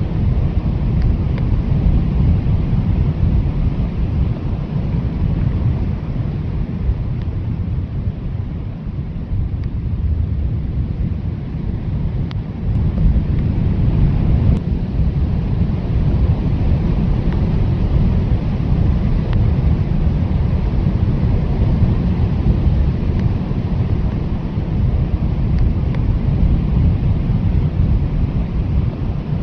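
Strong blizzard wind blowing steadily with a deep rush, easing slightly about eight seconds in and picking up again a few seconds later.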